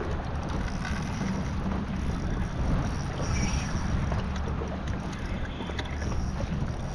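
Strong wind buffeting the microphone, a steady low rumble, with water washing against the kayak.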